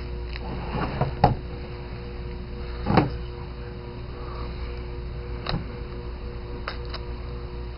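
Trading-card box packaging and cards being handled: a few sharp knocks and rustles, the loudest about three seconds in, over a steady low hum.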